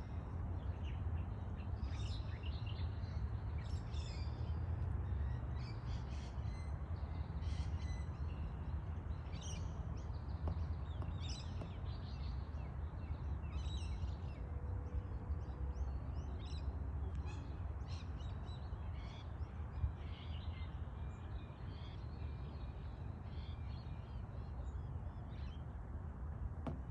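Birds calling over a steady low rumble: many short, repeated calls follow one after another.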